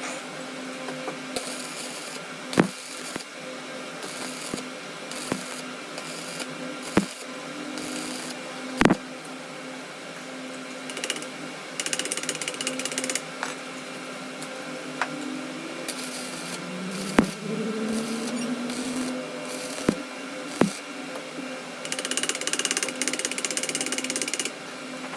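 Metalworking workshop sounds: a machine runs with a steady hum while metal is struck in a few sharp knocks, with short bursts of hiss. A rising whine sounds about two-thirds of the way through, like a motor speeding up.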